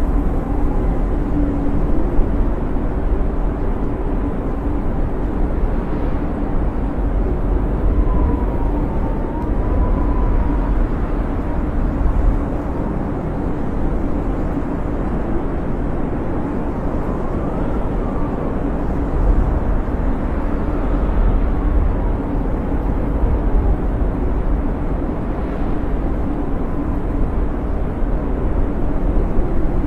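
Snowstorm wind howling, a steady low rumble with faint whistles rising and falling in pitch now and then.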